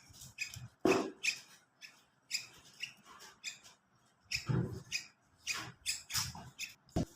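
Bulbul chick giving short, sharp chirping calls over and over at an uneven pace, with a few low thumps among them.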